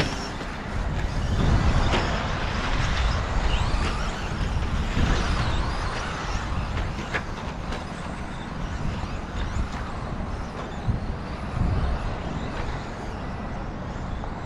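2wd RC stadium trucks racing around the track: a steady rush of motors and tyres, with a few sharp knocks.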